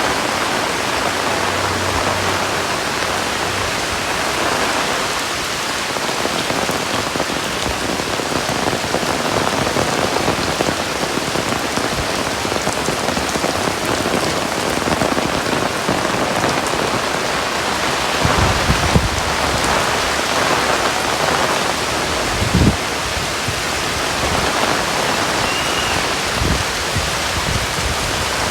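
Heavy rain falling steadily on surfaces, a constant dense hiss. A few brief low thumps stand out about two-thirds of the way through.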